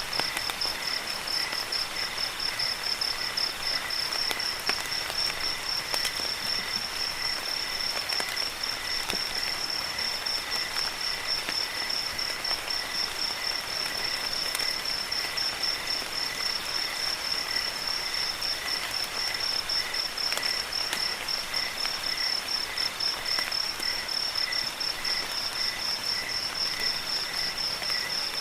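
Crickets chirping steadily in fast, even pulses, several at different pitches, over a steady hiss of falling rain with scattered drips.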